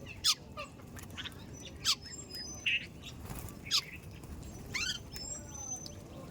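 Birds calling at a feeding spot: sharp, short downward-sweeping chirps about once a second, with thin high whistled notes between them.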